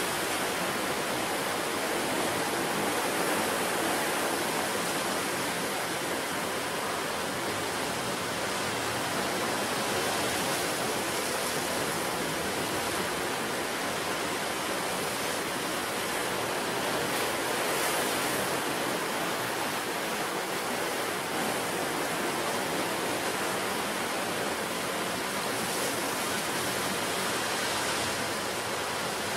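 Sea surf on a rocky coast: a steady, unbroken rush of water with no separate wave crashes standing out, swelling slightly about halfway through.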